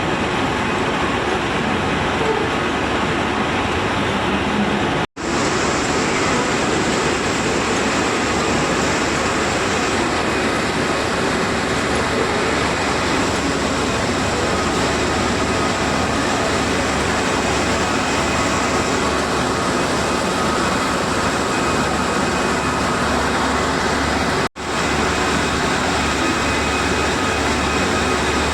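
Tea-processing machinery in a factory running with a steady, dense mechanical din and a few faint steady hums. The sound drops out for an instant about five seconds in and again near the end.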